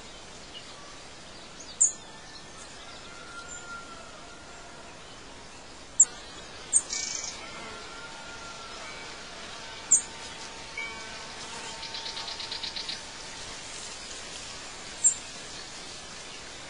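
Birds chirping: short, sharp high calls every few seconds over a steady background hiss, with a rapid buzzy trill about twelve seconds in.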